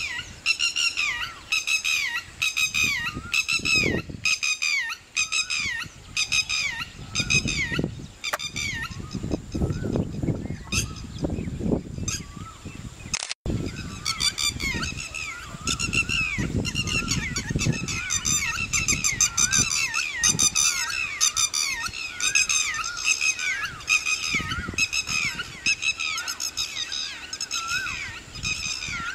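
A bird calling over and over: a long series of short, falling notes, about two a second, that fades for a few seconds mid-way and then resumes.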